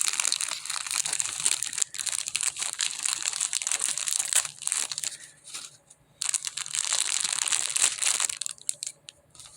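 Gift wrapping crinkling and rustling in a dense crackle as a present's packaging is handled, breaking off briefly about halfway and dying down near the end.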